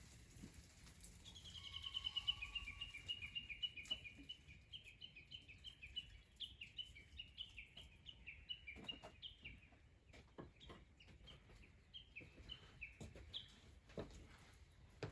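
A small bird calling a long, fast series of repeated high notes in alternating pairs, going on for about twelve seconds, with a few faint clicks around it.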